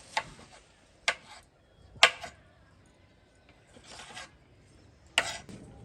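Five short rasping, scraping strokes about a second apart, the fourth softer and longer than the rest.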